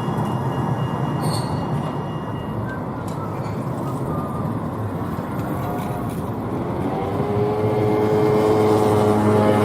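An electric tram running through a tram stop, with its rumble throughout and thin high tones in the first few seconds. From about seven seconds in, a whine rises in pitch, typical of the traction motors as the tram accelerates.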